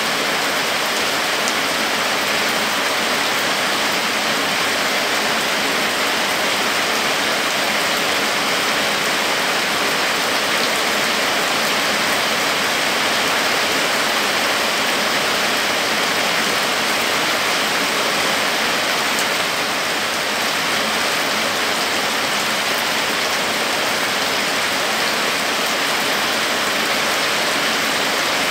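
Heavy rain falling steadily on dense foliage and a waterlogged dirt road: an even, unbroken hiss.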